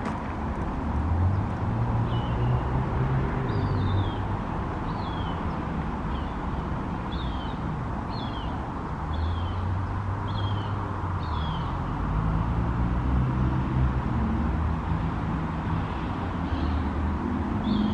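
Steady low traffic rumble, with a bird giving short, falling chirps about once or twice a second through much of the time, pausing and resuming near the end.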